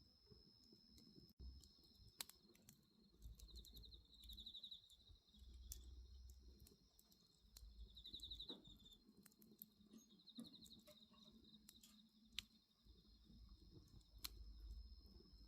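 Faint wood bonfire crackling, with a few sharp pops scattered through, while insects chirp in short pulsed trills over a steady high drone. A soft low rumble comes and goes.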